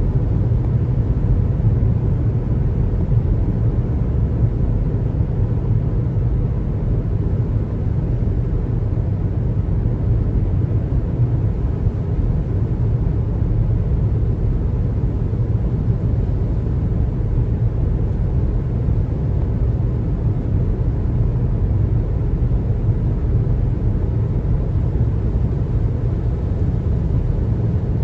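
Steady low rumble of a car driving on the highway: tyre and road noise with the engine underneath, even throughout.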